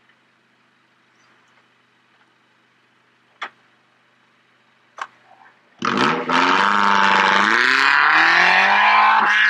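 Suzuki Jimny off-roader's engine revving hard as it pulls away toward a steep sand-hill climb, cutting in suddenly about six seconds in, its revs dipping and then climbing. Before that there is only a faint hum and two short clicks.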